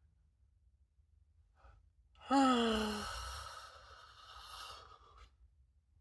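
A person's long sigh: a voiced note that falls in pitch for under a second, then trails off into a breathy exhale lasting about two more seconds.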